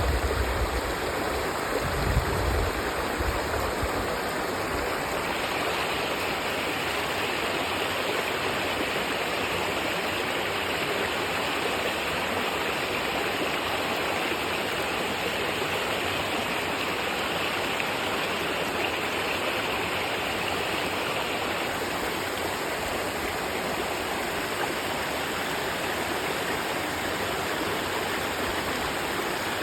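Stream water rushing steadily over a small waterfall. Low rumbling is mixed in during the first few seconds.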